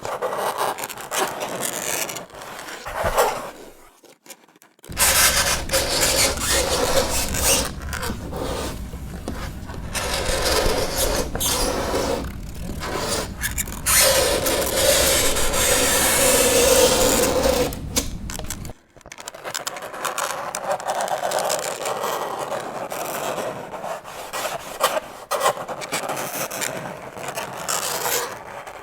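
Fingernails scraping across a chalkboard in repeated strokes, with short breaks about four seconds in and again just before the twentieth second. A low hum sits under the middle stretch, and a drawn-out squeal rises from the scraping a little past halfway.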